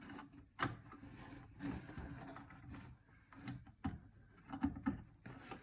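Scattered clicks, light knocks and rustling as PC power-supply cables and connectors are handled and fitted.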